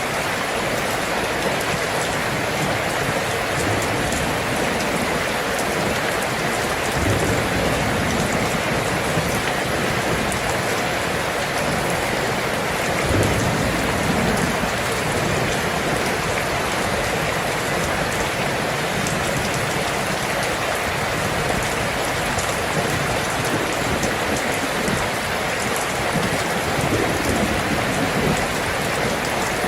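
Steady, dense rainfall, an even hiss of drops, with two brief low swells about seven and thirteen seconds in.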